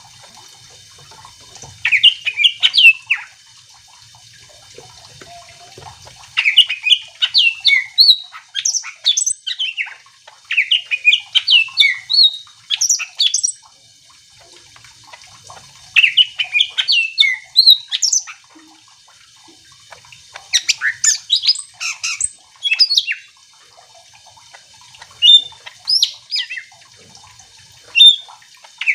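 Green leafbird (cucak ijo) singing vigorously: bursts of rapid, varied chirping and squawking phrases, each a second or few long, coming about every four seconds with short pauses between.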